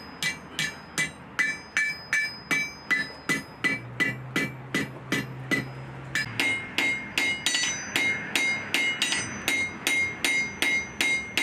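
Hand hammer forging hot steel on an anvil in a steady rhythm, about three blows a second, each blow with a bright metallic ring. About six seconds in, the ring grows stronger and lasts longer.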